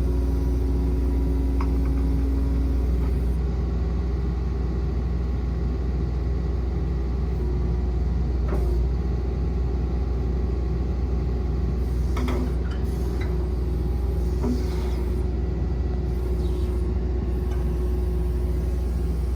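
Diesel engine of a Kobelco SK135SR-2 excavator running steadily with a deep, even rumble; a few faint short clicks and squeaks come in about twelve to fifteen seconds in.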